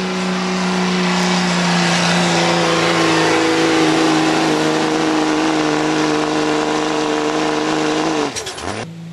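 Pulling truck's engine run hard at full throttle under the load of the sled, its pitch slowly sagging. About eight seconds in the throttle is chopped and the engine note falls away sharply.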